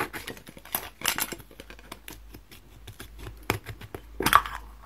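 A chocolate surprise egg being unwrapped and opened by hand: crinkling wrapper and a run of small clicks and snaps, the loudest about a second in and again near the end.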